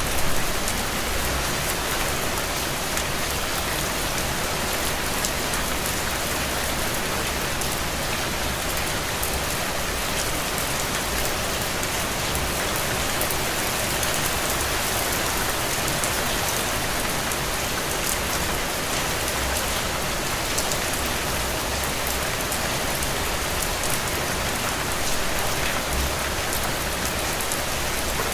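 Steady rain falling on a window pane, an even hiss full of fine drop taps.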